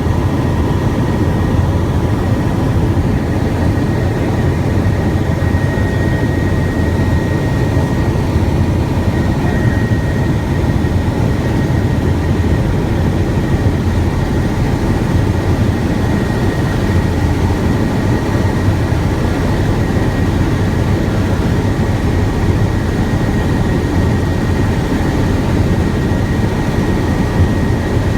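Helicopter in flight heard from inside the cabin: a loud, steady deep drone with a thin high whine above it.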